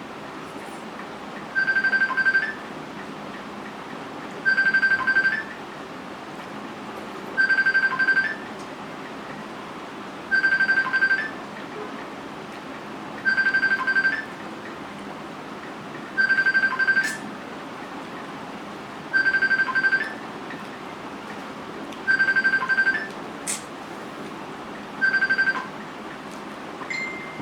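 A phone ringing: a high electronic ring about a second long, repeated nine times roughly every three seconds, over steady background noise.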